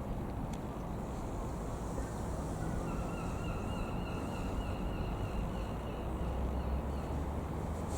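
Boeing 737-800 jet engines heard from the ground as a steady low rumble, with a faint wavering whine from about three to six seconds in.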